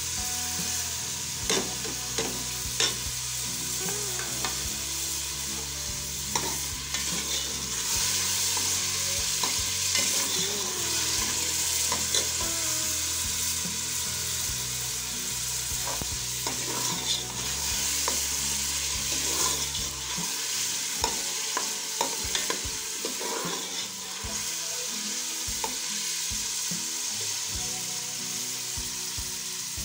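Chopped onions and green chillies frying in oil in a metal pot, sizzling steadily. A steel ladle stirs them, with frequent short clinks and scrapes against the pot.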